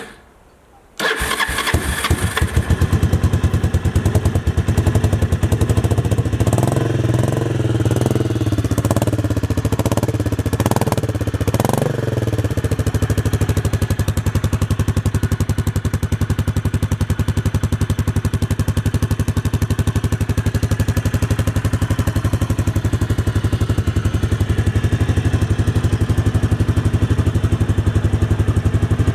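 Kawasaki Estrella 250's single-cylinder engine starting about a second in. Between about 6 and 12 seconds it is revved several times, then it settles into a steady idle.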